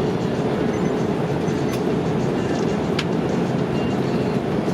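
Steady drone of airliner cabin noise in flight, the engines and rushing air making an even low rumble with a faint steady hum. Two faint ticks come about two and three seconds in.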